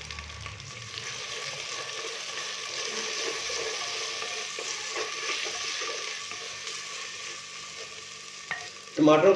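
Chopped tomatoes frying in hot oil with onions and ginger-garlic paste in a clay handi: a steady sizzle while a wooden spoon stirs them, with a few faint scrapes.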